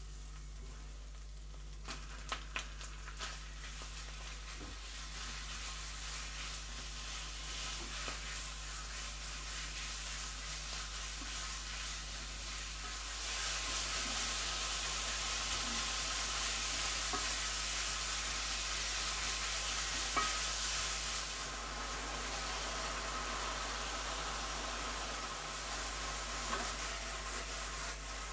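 Chopped garlic and chili sizzling in oil in a wok while a spatula stirs them, with a few light clicks about two seconds in. About 13 seconds in the sizzling gets louder as minced chicken thigh fries in the wok, then eases a little later on.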